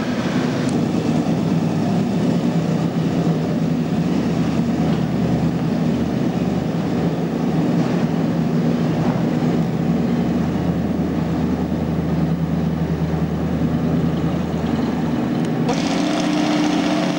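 Model T coupe hot rod's engine running steadily and loudly at low revs. Near the end the sound changes abruptly to a different, hissier engine sound.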